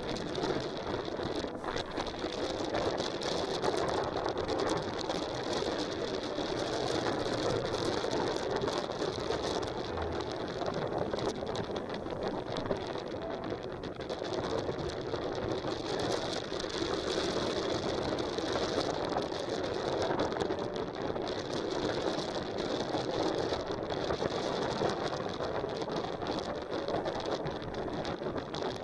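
Strong wind buffeting the microphone, a steady rushing noise that flickers but never lets up.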